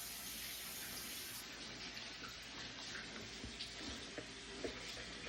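Water running steadily from a tap, a continuous hiss of flowing water.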